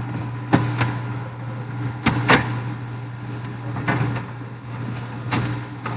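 A few sharp knocks and clunks at irregular intervals, about six in all, over a steady low hum.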